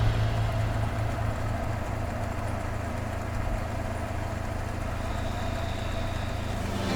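Honda CB500X's parallel-twin engine running steadily.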